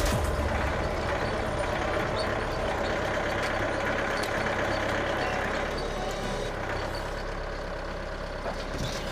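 Mahindra tractor's diesel engine running steadily, easing slightly after about six seconds.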